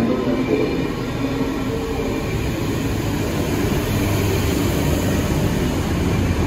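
Camshaft-controlled double-deck electric train running into an underground station platform: a steady, loud rumble of wheels and traction motors, with low tones drifting within it.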